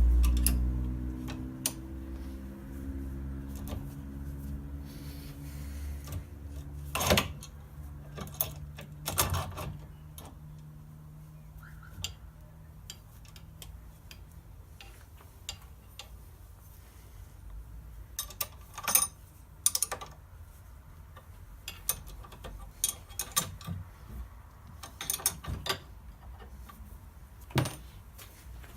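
At the start, a low motor hum falls in pitch and dies away. Then come scattered metallic clinks and knocks of tools being handled and set against a stuck bearing on a rear differential part, with a few louder knocks spread through.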